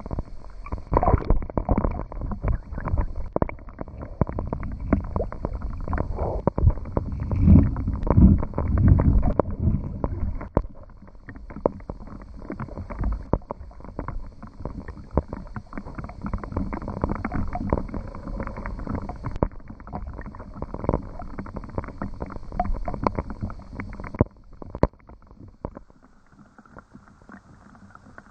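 Rain pattering densely, with low rumbling gusts louder about a third of the way in; near the end the patter thins out and quietens.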